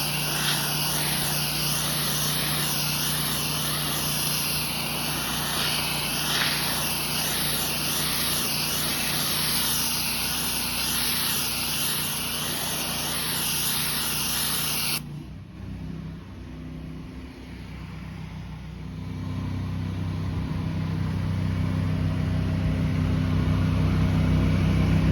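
Gas-engine pressure washer running with a steady high-pressure spray hiss, which cuts off suddenly about 15 seconds in, leaving the engine running alone and growing louder toward the end.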